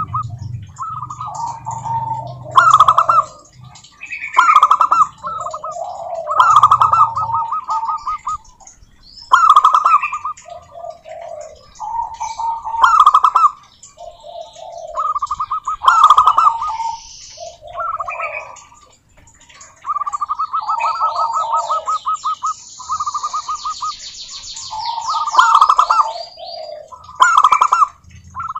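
Zebra doves (perkutut) cooing over and over, each phrase a quick run of trilled coos, repeating every couple of seconds. About three quarters of the way through, a fast series of high chirps from a smaller bird sounds over the cooing.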